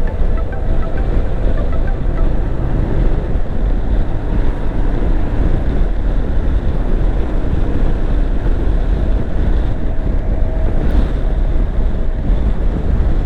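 Steady wind rushing over the microphone of a moving motorcycle, with the motorcycle's engine and road noise running underneath.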